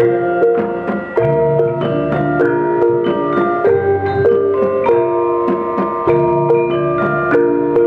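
Gamelan ensemble playing: struck bronze keys and gongs ringing in a steady, busy melody, with a low gong tone every couple of seconds.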